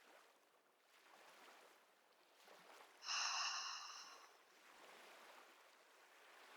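An ujjayi (ocean) breath exhaled through the nose with the mouth closed: a soft, whispery hiss from the narrowed throat, about a second and a half long, in the middle. Fainter breathing hiss comes before and after it.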